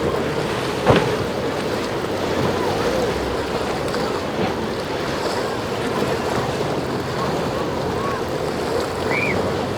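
Boats running through breaking surf in an inlet, with wind on the microphone and scattered distant shouts. A sharp knock about a second in.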